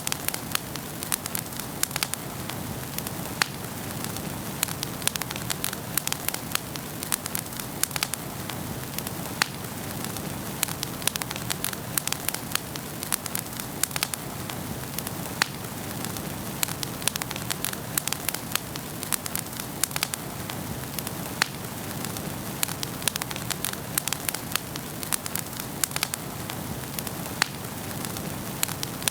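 Wood fire burning in a fireplace, crackling with frequent irregular sharp pops over a steady hiss.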